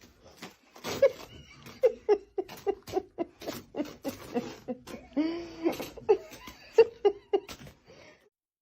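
A person laughing in a long string of short bursts, about two or three a second, dying away shortly before the end.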